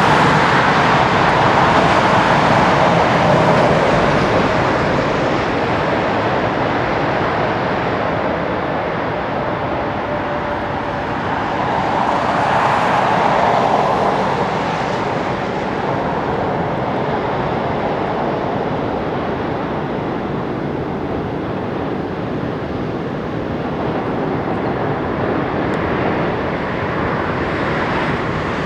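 Embraer 190's General Electric CF34-10E turbofan jet engines running steadily on the ground, a broad jet rush that swells twice.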